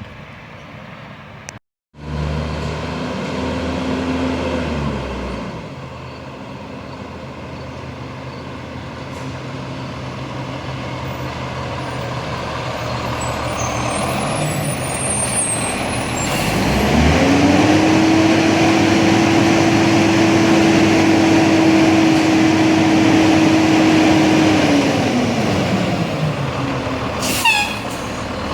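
Diesel garbage truck engine running. The sound cuts out briefly about two seconds in. From about seventeen seconds the engine revs up, holds high for around eight seconds and then drops back, as it does when throttling up to drive the hydraulic packer. A short falling squeal comes near the end.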